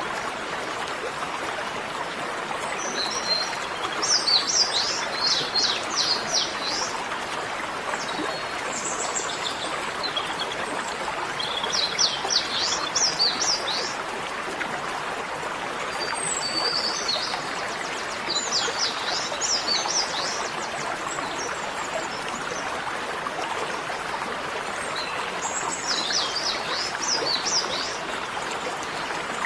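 A bird singing in repeated bursts of fast, high trilled chirps, five phrases a few seconds apart, over a steady rushing hiss like running water.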